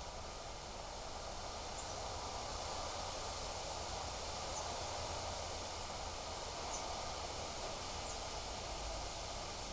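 Wind outdoors: a steady rushing with a low rumble on the microphone and rustling, with a faint short high chirp every second or two.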